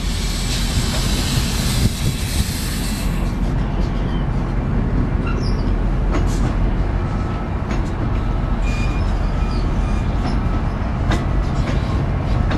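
MBTA bilevel commuter coaches rolling past at close range: a steady heavy rumble of steel wheels on rail, with scattered sharp clicks and clacks and a faint, brief wheel squeal.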